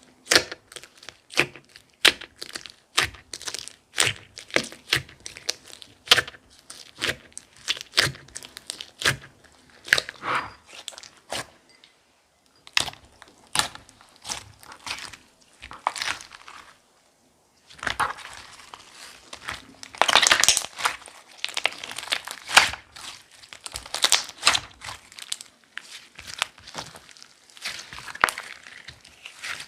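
Clay-mixed clear slime being pressed and played with by hand, giving sharp popping clicks about twice a second. After a short pause past the middle, it turns into denser crackling bursts.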